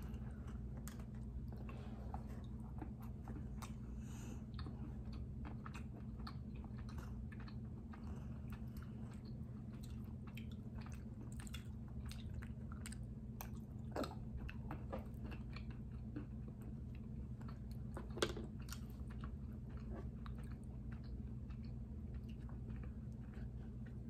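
Close-up chewing of dark chocolate almond bark: soft mouth sounds with many small crunches and clicks, two of them louder, about 14 and 18 seconds in. A steady low hum sits underneath.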